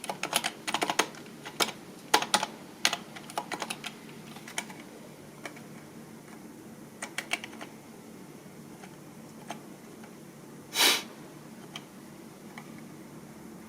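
Typing on a computer keyboard: quick runs of key clicks for the first few seconds, thinning out to occasional single keystrokes. There is one louder, longer knock about eleven seconds in.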